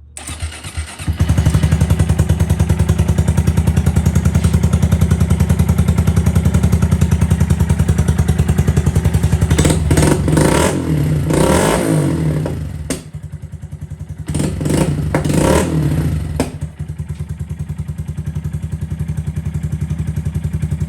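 2024 Honda Grom's single-cylinder engine through an aftermarket iStunt exhaust, starting up about a second in and settling into a loud, evenly pulsing idle. It is revved in two groups of quick blips around the middle, then drops back to idle.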